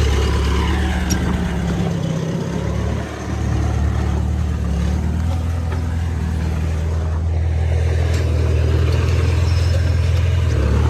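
Heavy diesel earthmoving engine running steadily at a low, even pitch, easing off briefly about two to three seconds in before settling back.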